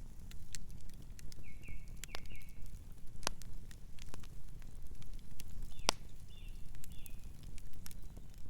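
Campfire crackling, with scattered sharp pops, the two loudest about three and six seconds in. A nocturnal bird chirps softly in two short runs of calls.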